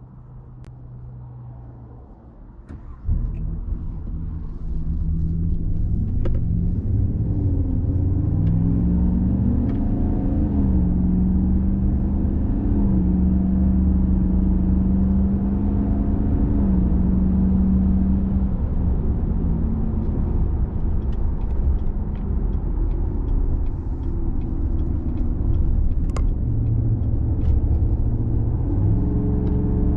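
Chevy Silverado 5.3 L V8 with a Corsa Sport cat-back exhaust, heard from inside the cab: a quiet idle for about three seconds, then the engine pulls away with a sudden rise in level, its pitch climbing and falling back through gear changes as the truck drives on.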